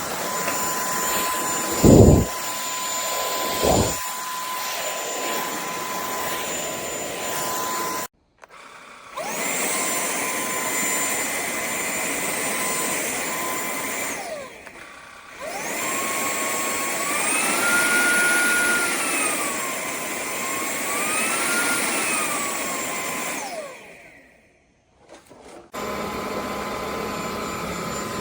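KCLASO cordless stick vacuum's motor running with a steady high whine, spun down and started up again a few times. Twice its pitch climbs and then falls back, as it is stepped up to a higher power setting and down again. Two dull thumps come early, about two and four seconds in.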